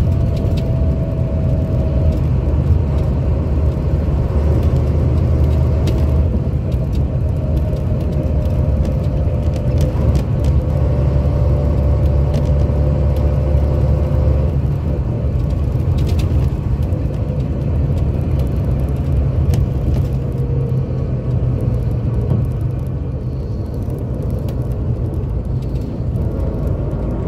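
Scania K82 coach's diesel engine running steadily under way, a heavy low rumble with a faint whine that slowly drifts lower in pitch, and a few light rattles.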